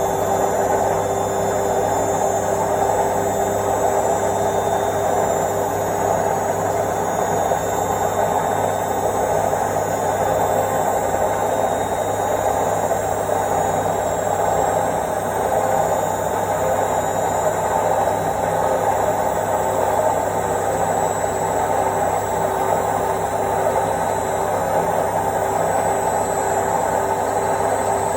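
Indesit IWC71252 washing machine running at a steady speed on its quick wash, a continuous whirring hum with one steady tone and no pauses, as in a steady spin.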